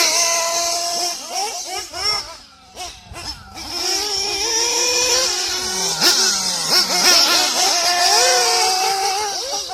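Small two-stroke nitro glow engine of a 1/8-scale RC buggy running at high revs, with a high-pitched whine and its pitch rising and falling. It drops away briefly about three seconds in and fades again near the end.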